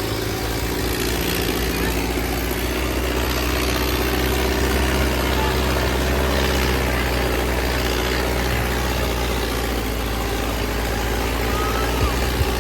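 Tractor diesel engines running steadily with a loud, continuous low rumble, with voices in the background.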